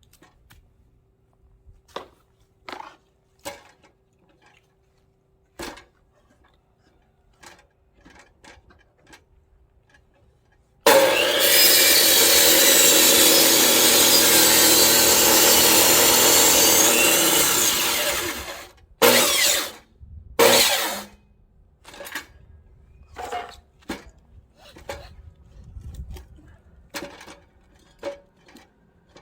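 Electric chainsaw cutting through a log for about seven seconds, then two short bursts of the saw, with the motor stopping dead between them. Scattered knocks of wood being handled come before and after.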